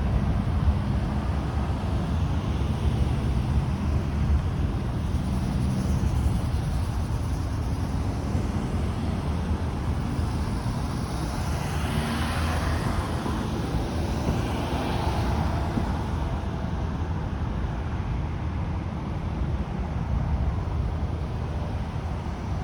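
Road traffic going by, with wind rumbling on the microphone; one vehicle passes louder about halfway through.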